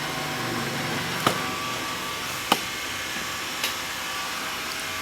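Xiaomi Mi robot vacuum running steadily while it cleans, a constant motor hum and hiss. Two sharp clicks stand out, one a little over a second in and one about halfway, with a fainter one later.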